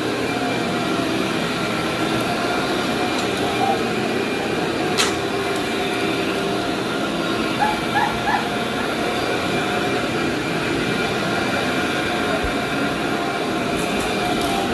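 Vacuum cleaner running steadily over carpet, its motor giving a constant whine. A sharp click about five seconds in, and three short yips from a dog around eight seconds in.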